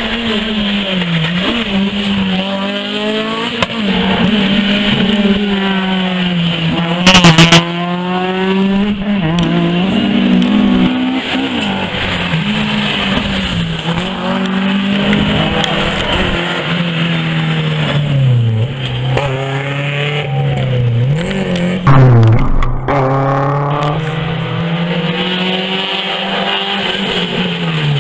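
Rally car engine running hard along a stage, its pitch climbing and dropping repeatedly with throttle and gear changes. Two short, very loud blasts come about 7 and 22 seconds in.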